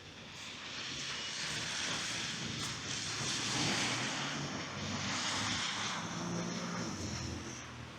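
A motor vehicle passing on a snowy street: engine hum under a tyre hiss that swells over a few seconds and fades near the end.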